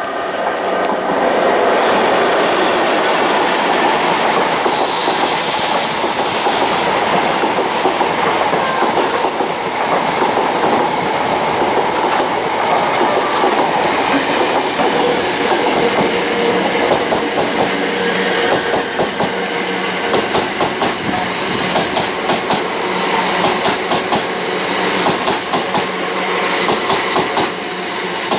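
Greater Anglia electric multiple unit passing along the platform: a loud, steady rumble of wheels on rail, with a burst of high hiss about five seconds in. In the last several seconds the wheels clack rhythmically over the rail joints, several clacks a second.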